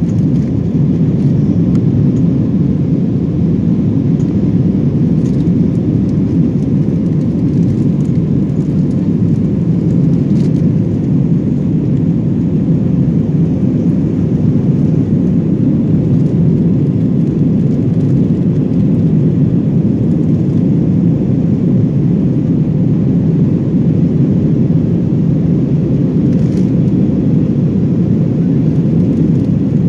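Steady, loud drone of an Airbus A321-200's jet engines and airflow, heard inside the passenger cabin.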